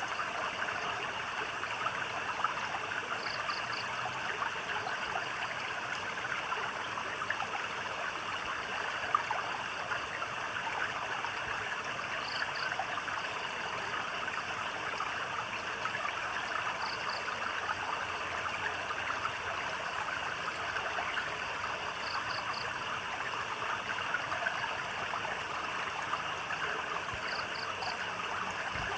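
Steady trickling and babbling of a small stream. A faint, high chirp of two or three quick pulses repeats about every five seconds.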